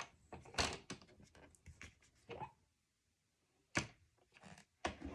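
Cardstock being scored and handled: a scatter of short scrapes and taps, the loudest about half a second in and again near four seconds.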